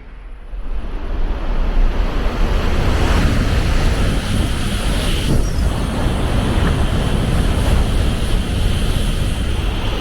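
Shinkansen bullet train passing close by at speed: a loud, steady rush of air and wheel noise that rises sharply about half a second in and holds.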